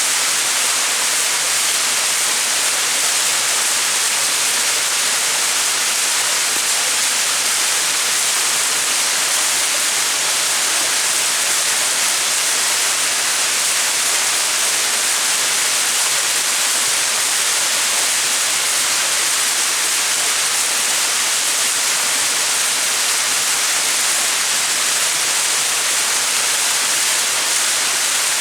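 Small mountain waterfall splashing, a steady, even hiss of falling water with no change.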